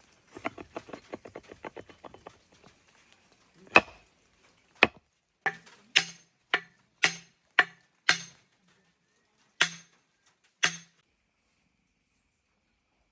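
Chopping: a quick run of light rapid taps for the first three seconds or so, then about ten sharp single chops at uneven spacing, stopping well before the end.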